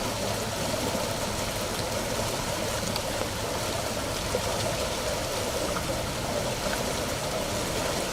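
Floodwater flowing, a steady, unbroken rush of moving water.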